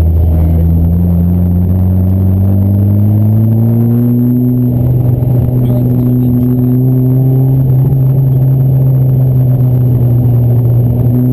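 Modified Fiat 124 Spider 2000's twin-cam four-cylinder engine, with a Weber carburettor and Stebro exhaust, under way. Its pitch rises as the car accelerates over about four seconds, then it holds steady revs.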